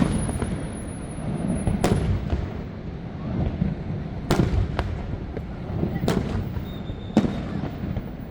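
Fireworks exploding: about five sharp bangs spaced a second or more apart, over a steady low rumble.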